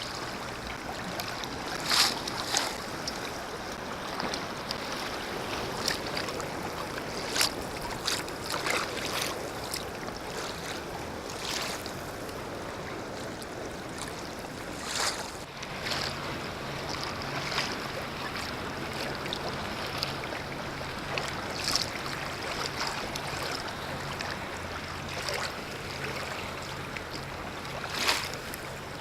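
Kayak paddle dipping and splashing in lake water, a stroke every second or two, over a steady wash of water and wind. A faint low hum comes in about halfway.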